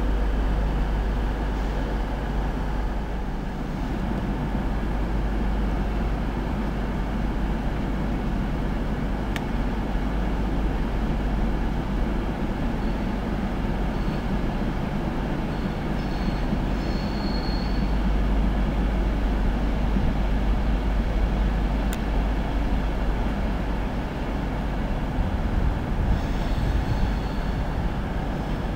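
Virgin Trains Class 390 Pendolino electric train rolling slowly towards the platforms, a steady low rumble of wheels on rails. Brief high wheel squeals come about halfway through and again near the end.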